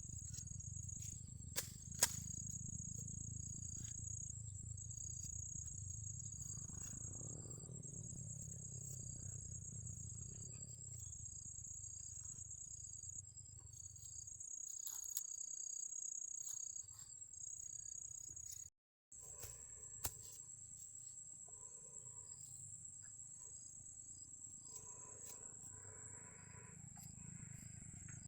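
Insects, likely crickets, trilling in a high, evenly pulsed chirr over a low rumble.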